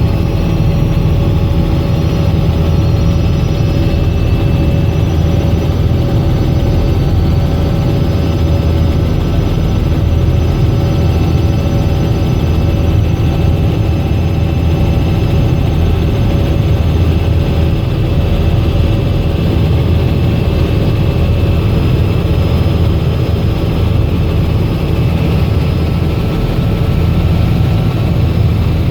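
Robinson R66 helicopter's Rolls-Royce RR300 turbine and rotor running steadily: a loud, constant low drone with thin steady whines above it.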